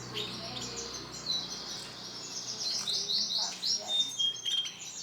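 Male domestic canary singing: fast runs of repeated short, high, downward-sweeping notes strung into trills, with a couple of brief pure whistled notes about four seconds in.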